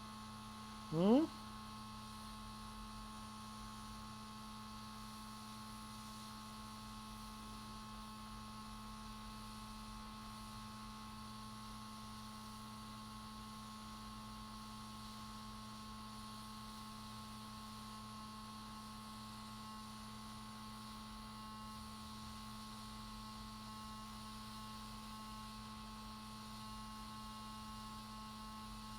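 Steady electrical hum on the repair bench: one low tone with a few fainter, higher steady tones above it, unchanging throughout.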